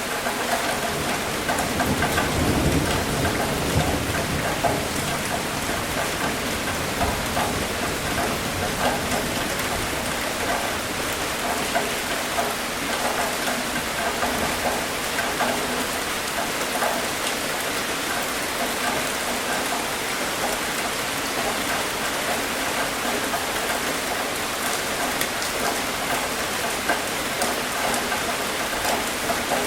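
Steady rain falling and pattering on surfaces, with a low rumble of thunder about two to four seconds in.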